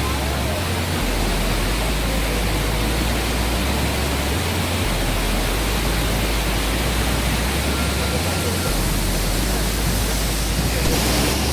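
The Rhine Falls, a large river waterfall, pouring in a loud, steady rush of water noise.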